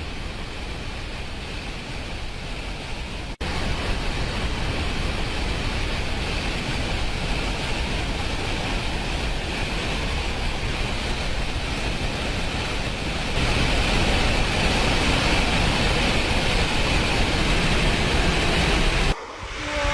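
Dam water rushing and spilling, a steady heavy noise that changes abruptly about three seconds in and gets louder about thirteen seconds in.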